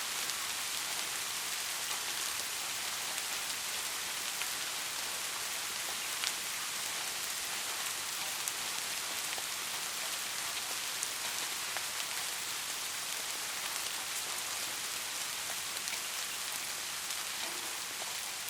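Steady rain falling, a continuous high hiss with scattered louder drop ticks.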